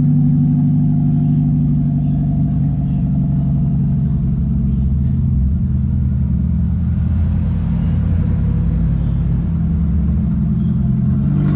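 Loud car engine running through an exhaust with the catalytic converter, muffler and resonator deleted: a deep, steady exhaust drone with a rumble that swells slightly midway.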